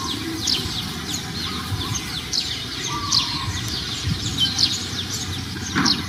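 Birds chirping: many short, quick chirps that slide downward in pitch, coming irregularly throughout.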